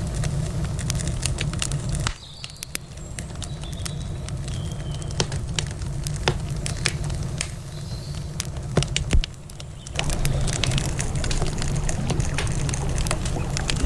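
Wood campfire crackling with frequent sharp pops and snaps, over the steady low rush of a river that fades out about two seconds in and comes back near the ten-second mark.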